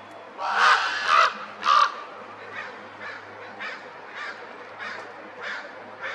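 A crow cawing: three loud, harsh caws in the first two seconds, then a run of quieter caws repeated evenly, a little under two a second.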